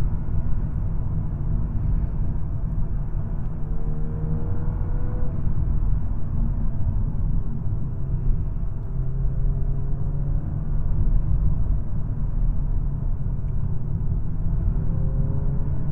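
2022 Volkswagen Golf R's turbocharged 2.0-litre four-cylinder engine running in third gear, heard from inside the cabin over a steady low rumble of tyres and road. The engine note rises and falls a little as the car drives on.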